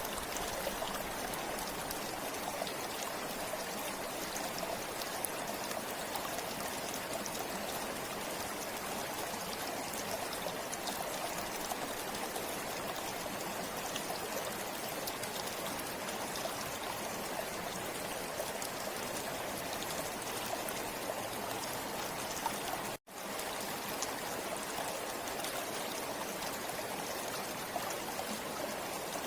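River water flowing steadily, an even rush of stream noise. The sound cuts out completely for an instant about twenty-three seconds in, then resumes unchanged.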